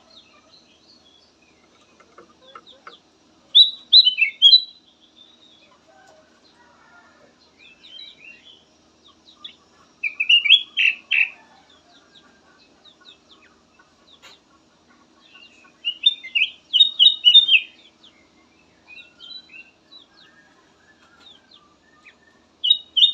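A kutilang emas bulbul singing: short, quick phrases of chirpy, warbling notes, four loud phrases a few seconds apart with softer notes between them.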